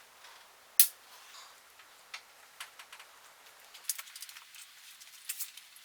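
Hand work on a dirt bike: one sharp click about a second in, then scattered light ticks and clicks, busier in the second half.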